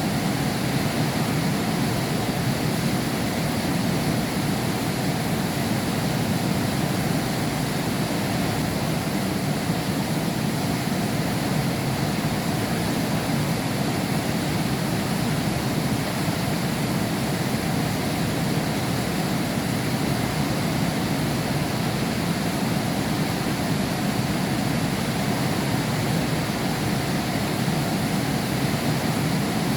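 Heavy rain falling steadily, heard from behind window glass: an even, unbroken rushing hiss with no thunder.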